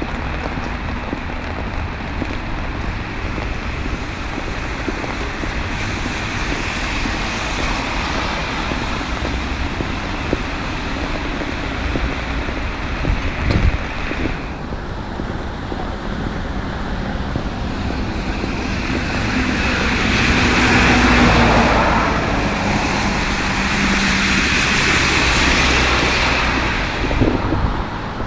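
Street traffic on a wet road: a steady hiss of tyres and engines, swelling as vehicles pass about two-thirds of the way in and again near the end.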